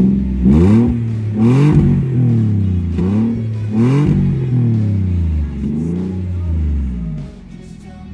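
Nissan Elgrand E51's engine revved in a series of blips through a new custom twin-pipe side-exit exhaust, each rev rising and falling in pitch. It drops back to a quieter idle near the end.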